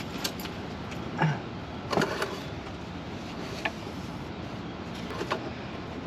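A few scattered light clicks and knocks over a steady background hiss, with the loudest a little after one second and about two seconds in: the handling of an oil bottle, cap and rag under a van's open hood while engine oil is being topped up.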